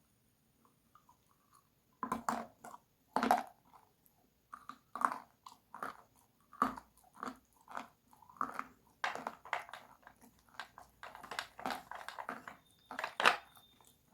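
Close-miked crunchy bites and chewing. After about two seconds of quiet, two loud bites come a second apart, then irregular crunching chews about twice a second, with one sharp, loud crunch near the end.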